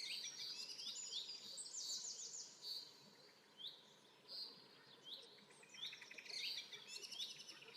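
Birds chirping faintly: repeated short chirps with quick trills at intervals.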